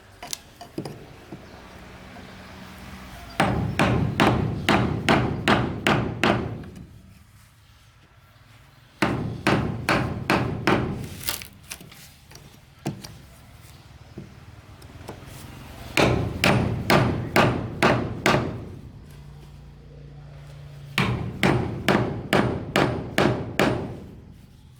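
A hammer driving nails into wood in four runs of about ten quick, even blows each, with short pauses between the runs.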